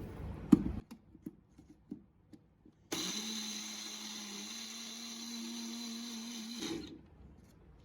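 A sharp click about half a second in, then an electric kitchen blender starts about three seconds in, runs steadily for nearly four seconds blending watermelon pieces with water and sugar into juice, and cuts off suddenly.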